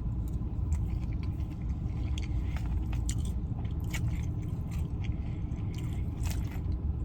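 Close-up chewing and crunching of fast food, with scattered sharp clicks of biting, over a steady low rumble.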